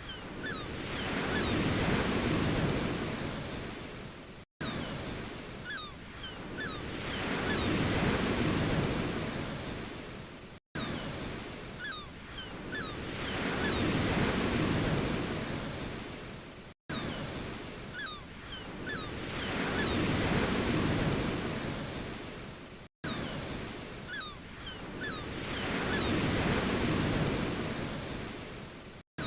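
Ocean waves washing in, one surge swelling and fading about every six seconds, five times over, with a brief cut to silence between surges.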